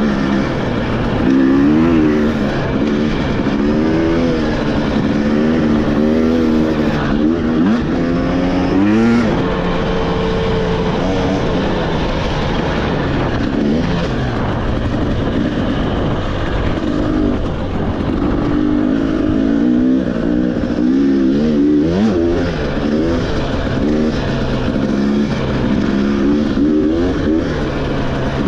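Motorcycle engine ridden on a dirt trail, the revs rising and falling continually as the rider works the throttle, with a briefer steady stretch about ten seconds in.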